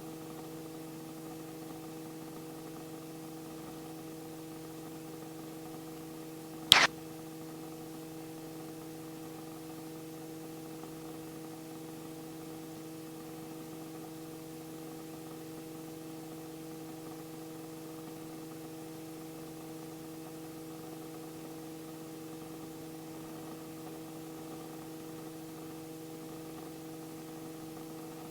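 Steady electrical hum and hiss on the helicopter's intercom audio line, with a single sharp click about seven seconds in.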